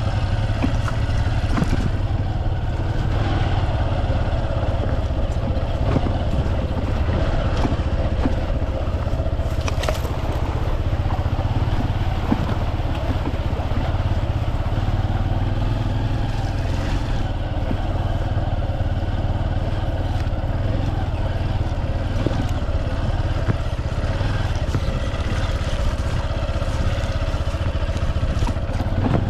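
Honda adventure motorcycle running at low speed through deep ruts, its engine note steady under a heavy low rumble, with occasional knocks and clatter from the bike over rough ground, one sharper knock about ten seconds in.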